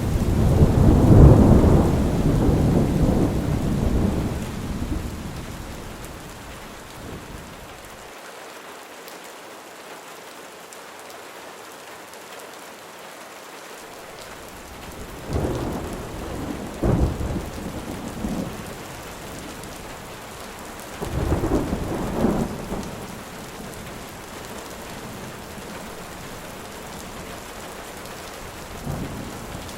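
Thunderstorm: steady heavy rain with rolling thunder. The thunder is loudest in the first few seconds and fades away, and a few shorter rumbles and cracks come about halfway through, again a little later, and once near the end.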